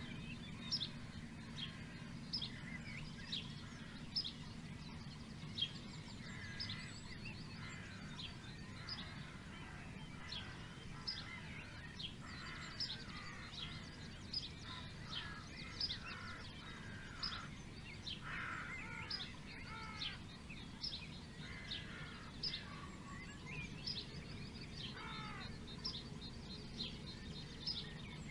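Several songbirds singing together: short, sharp high chirps repeated about once a second, mixed with warbling phrases, over a steady low rumble.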